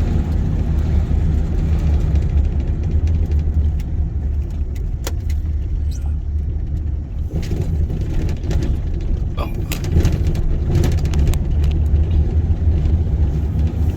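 Car cabin on the move: a steady low road and engine rumble, with scattered rattles and knocks as the car goes over a rough road.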